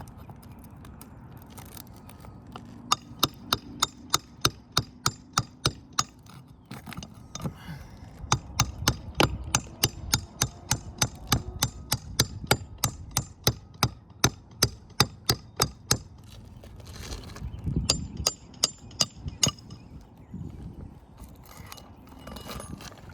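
A hammer striking metal in quick, steady strokes, about three a second, each with a bright metallic ring. It comes in three runs with short pauses between them.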